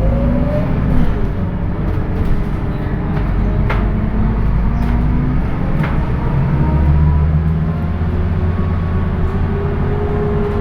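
Scania K230UB bus's engine and ZF automatic gearbox running under way: a steady low rumble with whining tones that rise and fall slowly in pitch as the bus pulls. Two brief sharp knocks come about four and six seconds in.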